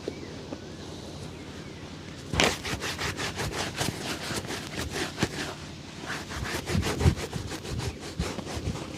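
A shoe being buffed during a shoe shine, with quick back-and-forth rubbing strokes. They start about two seconds in and run at about five strokes a second.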